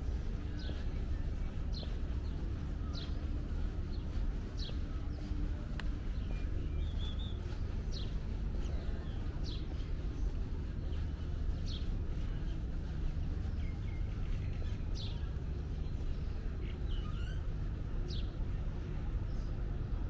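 A bird repeating a short, high chirp every second or two over a steady low rumble of outdoor city background.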